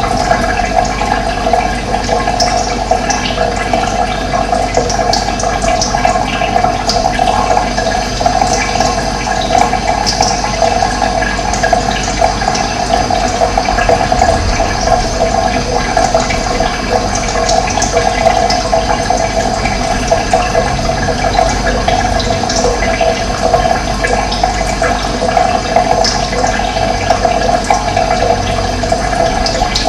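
Running water rushing steadily, with short high bird chirps here and there.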